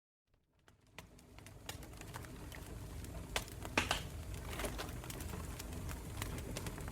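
Campfire burning, with a steady low rumble and many sharp crackles and pops from the burning wood; it fades in from silence over the first two or three seconds.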